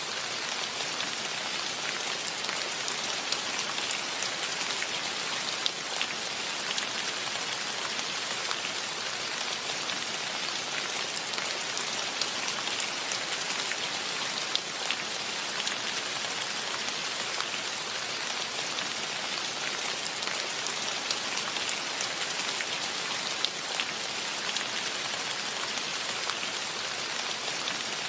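Steady rain falling, with the close patter and ticks of individual drops hitting surfaces.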